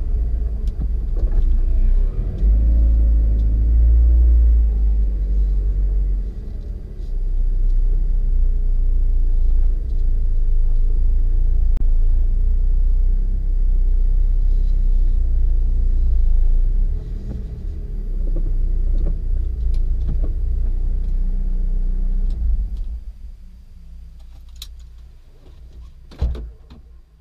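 Ford Focus RS engine heard from inside the cabin, a steady low rumble as the car rolls slowly and comes to a stop. The rumble stops about three-quarters of the way through, leaving a quieter hum, with a few clicks near the end.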